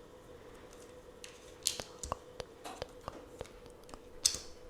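Tarot cards being handled: light clicks and taps of the card stock, with two brief swishes of cards sliding, about a second and a half in and near the end.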